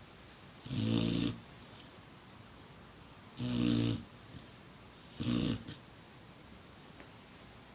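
A six-month-old black Labrador puppy snoring in its sleep: three snores about two seconds apart, each lasting under a second, the last one shorter. Then a pause in the snoring near the end.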